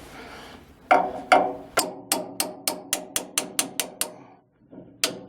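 Hammer blows in a quick, even run of about three to four a second, the first two the loudest; the run breaks off briefly and starts again near the end. This is a wedge being knocked out of a boat's propeller shaft coupling.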